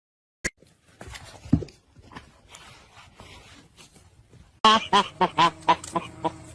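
An animal giving a quick run of short, pitched calls, about five or six a second, starting past the middle after a click and some faint rustling.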